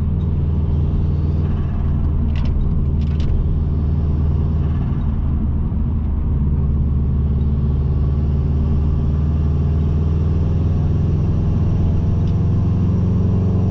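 Subaru Impreza WRX's turbocharged EJ20 boxer engine running at steady speed, a low rumble holding one pitch. A few short clicks come between two and three seconds in.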